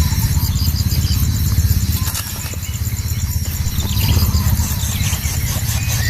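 Outdoor ambience: a steady low rumble with insects trilling continuously and a few brief bird chirps.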